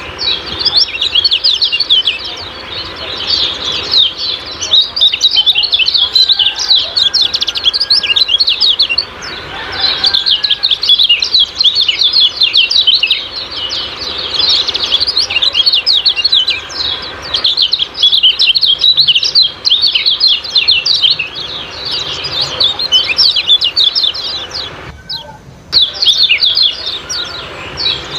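Kecial kuning songbirds chattering in a dense stream of rapid, high 'ciak-ciak' chirps, the kind of call played to excite caged birds into song. There is a brief break about 25 seconds in.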